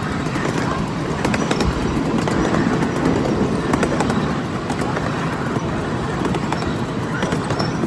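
Miniature ride-on passenger train rolling along its track: a steady rumble with frequent short clicks and rattles from the wheels and cars.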